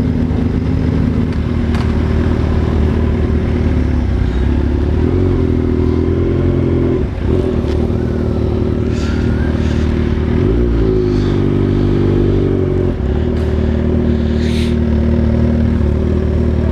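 Yamaha XJ6 600 cc inline-four motorcycle engine running under way, its pitch climbing twice as it pulls, with a brief dip about seven seconds in and a fall back about thirteen seconds in.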